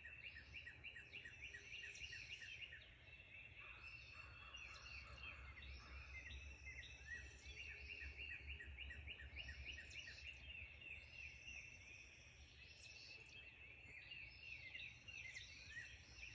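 Faint chorus of songbirds at dawn: several birds singing at once, with long fast trains of high, quickly repeated chirps and other calls overlapping them. A steady low rumble runs underneath.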